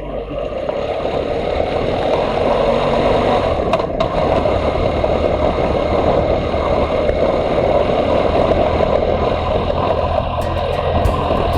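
Motorcycle on the move, its engine running under a steady rush of wind noise on the microphone.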